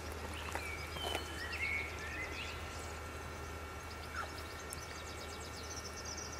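Birds chirping, short rising and falling calls in the first couple of seconds and a quick high trill near the end, over a steady low hum.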